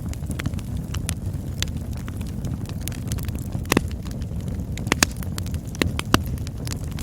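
Campfire burning, a steady low rumble of flames with scattered crackles and sharp pops, the loudest pops a little past halfway and near the end.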